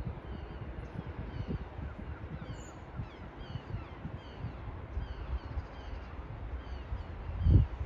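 A small bird calling over and over, short falling chirps about twice a second, over wind buffeting the microphone, with one louder low thump near the end.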